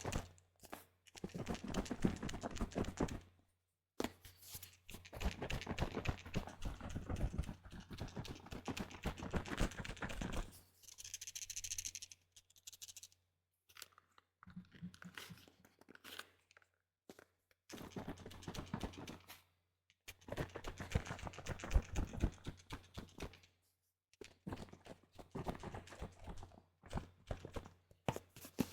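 Window-cleaner liquid sloshing and crackling inside a plastic Windex bottle worked close to the microphone, in bursts of a few seconds with short pauses between them.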